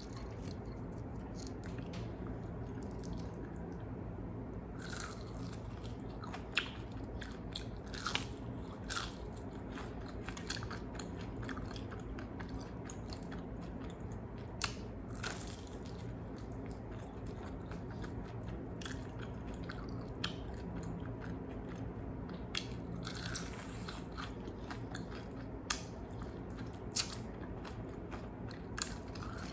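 Close-miked eating of crispy fried chicken wings: scattered sharp crunches as the coating is bitten, with chewing in between, over a steady low hum.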